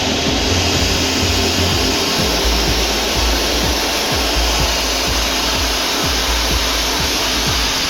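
Sandblaster nozzle blasting abrasive onto a steel truck chassis frame: a loud, steady rush of compressed air and sand with a low rumble underneath.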